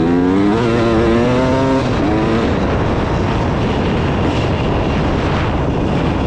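300 cc two-stroke dirt bike engine under throttle while riding: the revs climb and hold a steady high note for about two seconds, then the sound turns rough and noisy as the throttle comes off and on.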